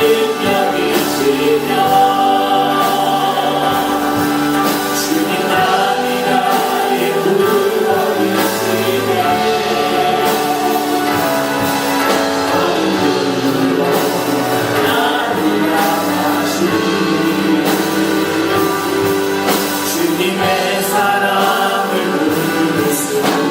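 Congregational or choir singing of a worship hymn with instrumental accompaniment.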